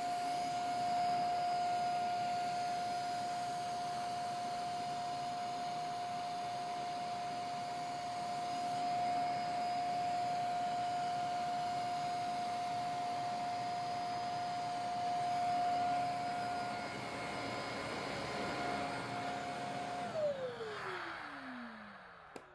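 450 W handheld mattress vacuum cleaner running steadily with a high motor whine. About twenty seconds in it is switched off and the whine falls in pitch as the motor spins down.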